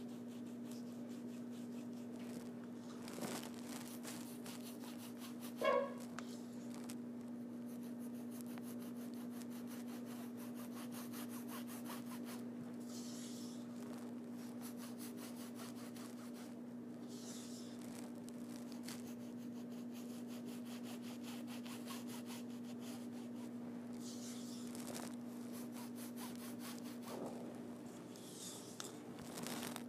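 Paintbrush scrubbing and rubbing across a stage backdrop in repeated strokes, over a steady low hum. A short squeak about six seconds in is the loudest sound.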